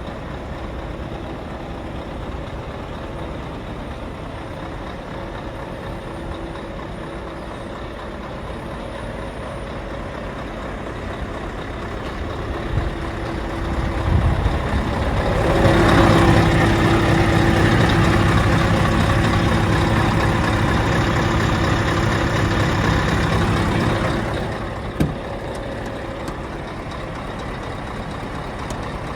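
Scania R580's 16-litre V8 diesel running at idle. About halfway through it is raised to a higher, steady engine speed for some eight seconds, then drops back to idle, followed by a short sharp click.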